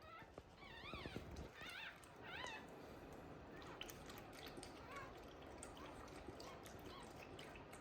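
Newborn Shiba Inu puppies squeaking and mewing, thin high cries that rise and fall, three clearer ones in the first couple of seconds and fainter ones after.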